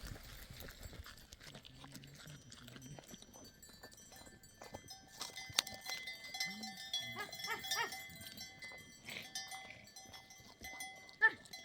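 A mixed flock of sheep and goats bleating several times from about halfway through, with livestock bells ringing steadily among the calls.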